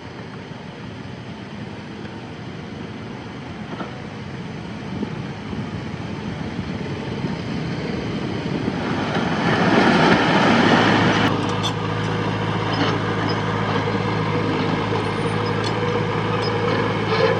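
Diesel engine of heavy earthmoving machinery running. It swells to its loudest with a broad rush about ten seconds in, then runs on in a steady, louder drone with a few faint clicks.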